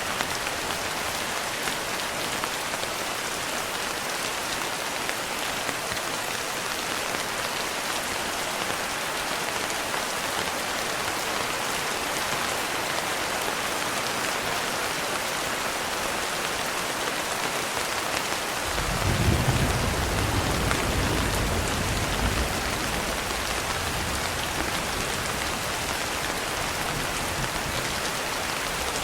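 Steady rain falling on a surface, with a low rolling rumble of thunder that comes in about two-thirds of the way through, swells briefly and dies away in uneven rolls.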